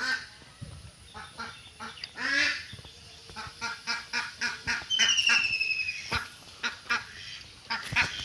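Birds calling in a rapid series of short, harsh calls, several a second, with a thin, high, slightly falling tone about five seconds in.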